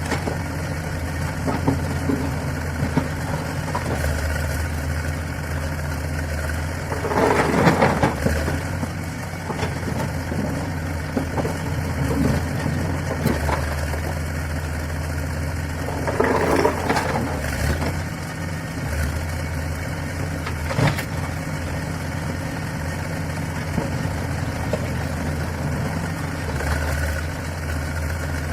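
Diesel engine of a heavy construction machine running steadily, with two louder, rougher spells about 7 and 16 seconds in.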